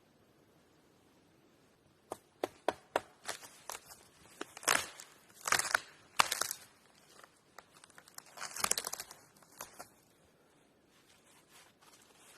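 Handling noise: a run of sharp clicks and short crinkling, scraping rustles from about two seconds in, dying away near the end.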